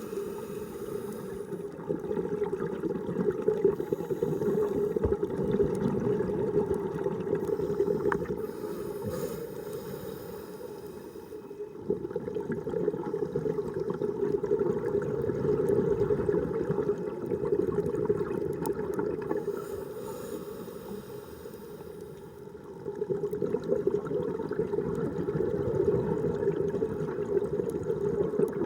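Underwater bubbling and gurgling from a scuba diver's regulator as the diver breathes, swelling and easing in long slow cycles with short quieter dips between.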